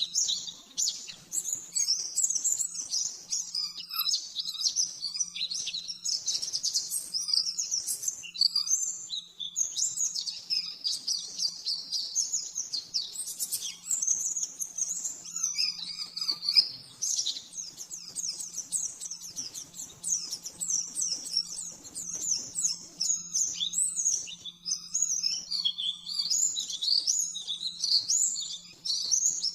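Pleci (white-eye) singing a continuous, rapid, high-pitched song of quick chirps and trills in fast 'nembak' volleys, the style bird keepers use as tutoring song. A faint steady low hum runs underneath.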